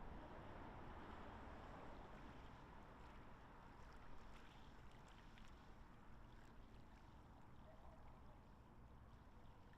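Near silence: faint, steady outdoor ambience, with a few faint high ticks around the middle.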